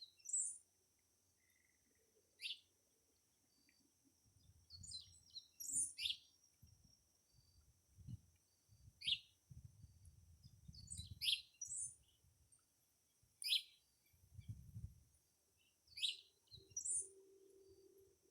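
Birds calling: short, sharp, high chirps that sweep downward, repeated every second or two, with a soft low rumble coming and going in the middle.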